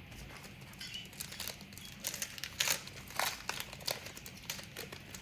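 Trading cards and their foil pack wrapper being handled: crinkling and rustling with scattered sharp clicks as the cards are flipped through.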